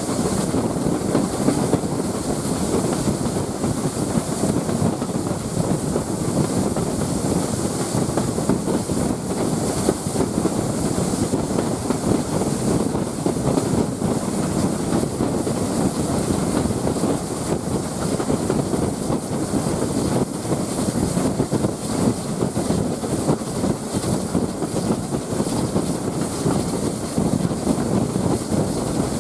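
A heritage railway train running along the line: a steady, unbroken rumble of wheels on the rails with a high hiss over it.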